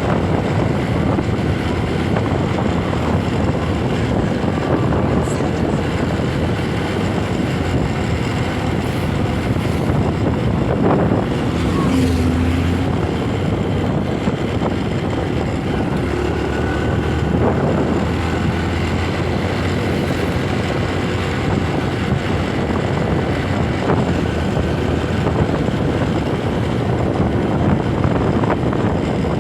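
Motorcycle on the move: engine running under steady wind rush on the microphone.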